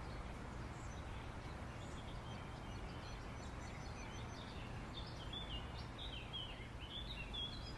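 Quiet outdoor ambience: a steady low background hum with faint bird chirps, a run of short chirps coming more often in the second half.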